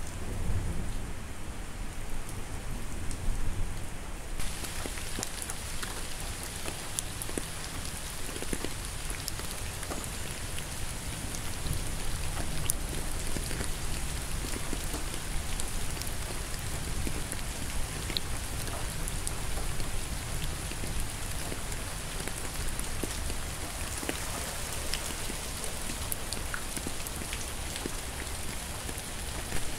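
Steady rain falling, a continuous hiss with scattered drops ticking sharply. About four seconds in the hiss turns brighter and higher.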